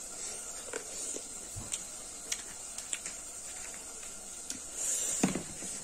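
Close-miked chewing: scattered soft, wet mouth clicks and smacks over a steady hiss.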